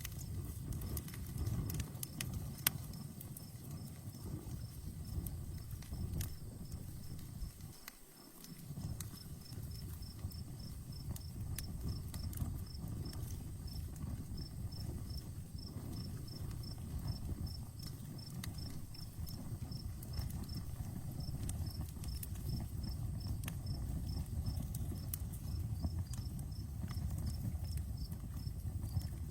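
Outdoor wood campfire crackling, with scattered sharp pops over a low steady rumble. Crickets chirp throughout in a high, evenly pulsed rhythm.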